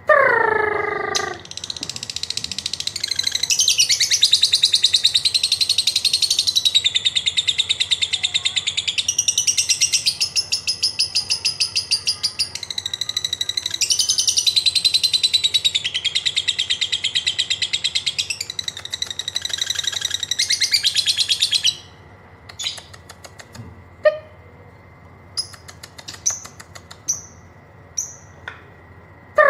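Lovebird 'ngekek': a long, unbroken, rapid high-pitched chattering trill lasting about twenty seconds, then a few sparse sharp clicks and chirps of the 'ngetik' kind. A brief falling tone is heard at the very start.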